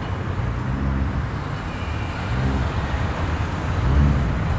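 Car engine running low and steady as a car drives off at low speed, with a few small rises in revs.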